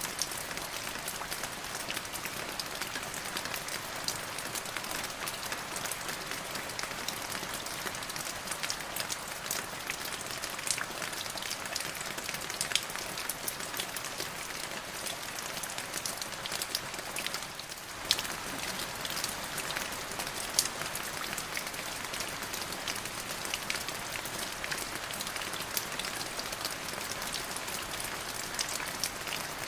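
Steady rain falling on a surface, a dense even hiss dotted with many sharp close drop ticks. The level dips briefly a little past halfway, then carries on as before.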